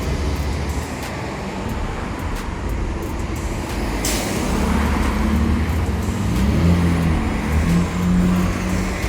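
City street traffic: motor vehicle engines running close by, with a low hum whose pitch shifts in the second half, and a short hiss about four seconds in.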